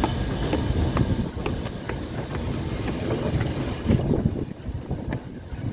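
Washington Metro 2000/3000-series Breda railcars rolling on the track: a steady low rumble with scattered sharp clicks from the wheels, easing off a little near the end. Wind buffets the microphone.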